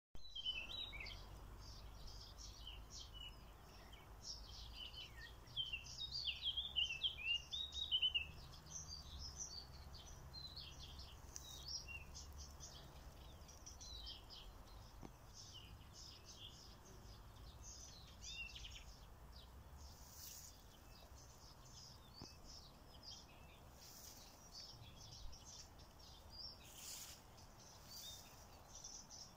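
Songbirds chirping and singing in quick, varied phrases, busiest and loudest between about five and eight seconds in, over a faint low rumble.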